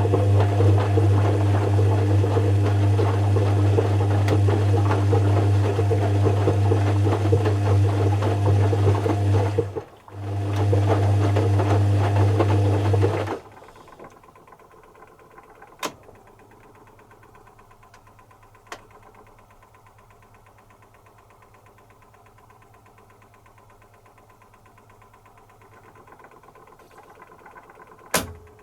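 Zanussi FC1000 compact washing machine running with a loud, steady hum. The hum cuts out briefly and resumes about a third of the way in, then stops about halfway through. After that only a few faint clicks are heard, with a sharper click near the end.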